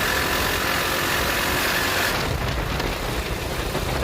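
Coleman CT200U-EX minibike's single-cylinder four-stroke engine running, its sound changing about two seconds in as a steady high whine stops.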